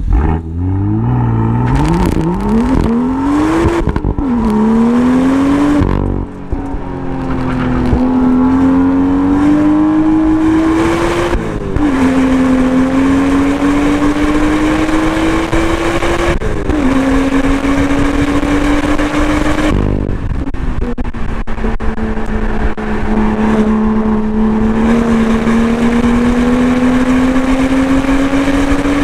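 2018 BMW M2's turbocharged inline-six engine under hard acceleration. It climbs quickly through several upshifts at the start, then pulls in long, slowly rising runs. Each run is broken by a sudden drop in pitch or a brief lift about every four to five seconds, as the car shifts and brakes for corners.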